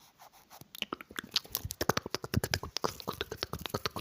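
Close-miked ASMR mouth and hand sounds: a fast, irregular run of small clicks, pops and smacks, sparse at first and dense from about a second in.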